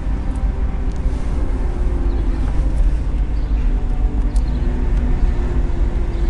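Inside a car driving slowly: steady low rumble of road and engine noise, with a faint engine hum over it.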